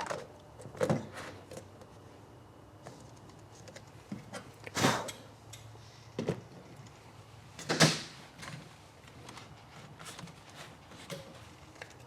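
Scattered knocks and clicks of objects being handled, with two louder ones about five and eight seconds in.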